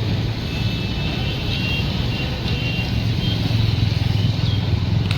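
Moving train running with a steady low rumble, faint thin high-pitched tones over it and a single click near the end.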